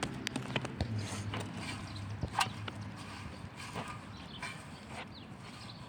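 Dry grass and plant bits being picked and handled, giving irregular crackles and small clicks with no steady rhythm.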